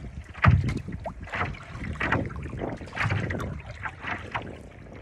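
Water splashing around a paddleboard in choppy water: paddle strokes and small waves slapping the board, in irregular splashes about once a second, the loudest about half a second in.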